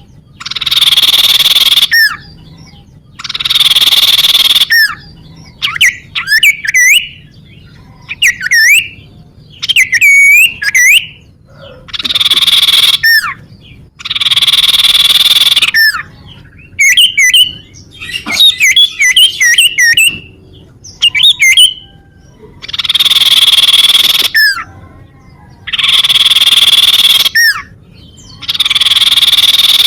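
Cipoh (iora) bird song: long harsh buzzing notes of about a second and a half each, repeated every few seconds. Between them come quick whistled notes that glide up and down, and a fast run of chirps about two-thirds of the way through.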